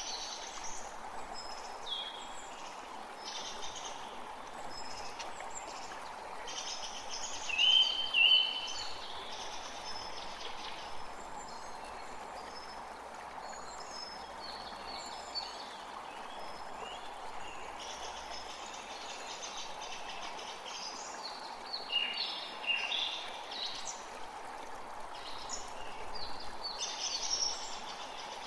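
Forest creek flowing steadily, with songbirds calling and singing over the water throughout. The loudest call comes about eight seconds in, and there is another busy spell of song about three-quarters of the way through.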